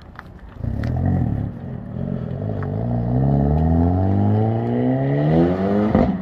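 Hyundai Elantra N's turbocharged 2.0-litre four-cylinder accelerating hard away, its note climbing steadily in pitch through one gear for about five seconds. Near the end there is a sharp crack from the exhaust and the revs drop for an upshift.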